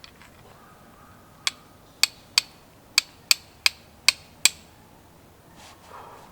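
A run of eight sharp taps of hard objects striking, irregularly spaced over about three seconds, each with a brief ring.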